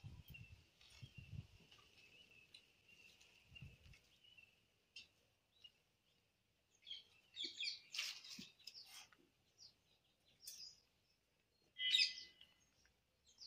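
Faint birds chirping: a steady high trill for the first few seconds, then clusters of short chirps about halfway through and again near the end.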